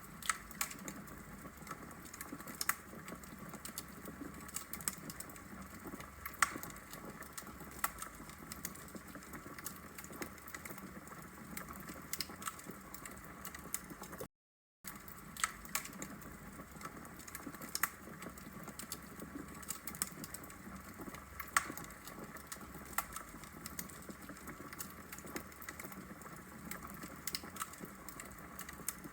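Log fire in a brick fireplace crackling: irregular sharp pops and snaps over a steady low hiss. The sound drops out briefly to silence about halfway through.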